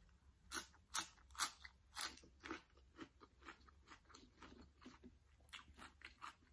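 Close-up eating sounds: a person biting and chewing crisp food, with a run of sharp crunches about twice a second in the first two and a half seconds, then softer, sparser chewing.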